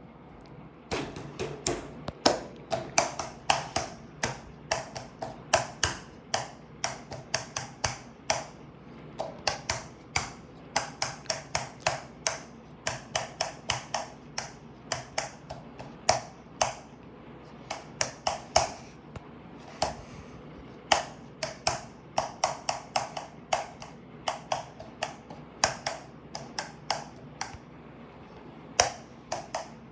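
Rapid sharp taps on a fan in a quick, uneven rhythm with a few short breaks, beating out a tune.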